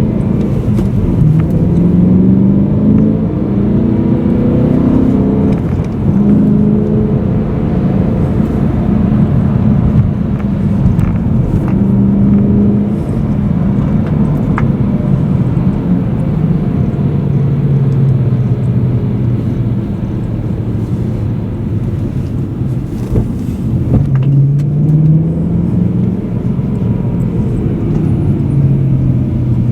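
BMW M3 E92's 4.0-litre V8 heard from inside the cabin while driving in town, its pitch climbing under acceleration, dropping at gear changes and easing off, then climbing again.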